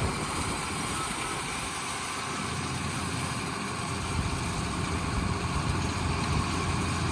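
Tractor engine running as it drives off pulling a hay tedder, a steady low hum that grows louder from about two and a half seconds in.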